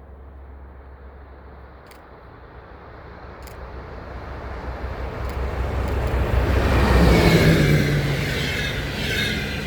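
A train approaching and passing close by: its rumble grows from about three seconds in, is loudest around seven seconds with a steady low hum and some higher whining tones, then begins to fade.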